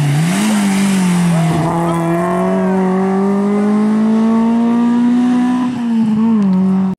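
Peugeot 205 rally car's engine at full throttle. Its note dips and rises in the first second, climbs steadily for about five seconds, then drops as the driver lifts near the end, and the sound cuts off suddenly.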